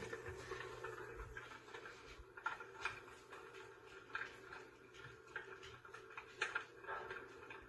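PuraFlame Klaus electric fireplace insert playing its simulated fire crackling sound, irregular pops and snaps from its built-in speaker over a steady hum.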